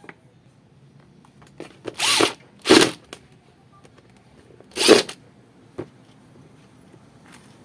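A handheld power tool, likely a drill or driver, run in three short bursts of a fraction of a second each, the second and third the loudest, with a few light knocks of parts being handled between them.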